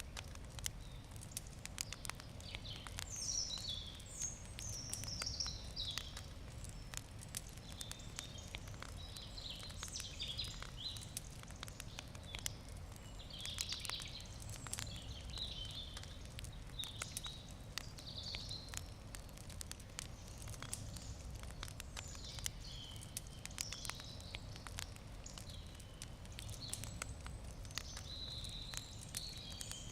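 Wood campfire crackling, with frequent small sharp pops and snaps. Birds chirp and sing in the background, and a low steady rumble runs underneath.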